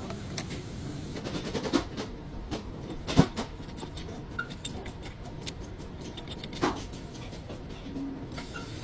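Scattered metallic clicks and knocks of tools and parts being handled during a brake service, with a sharp knock about three seconds in and another shortly before the end.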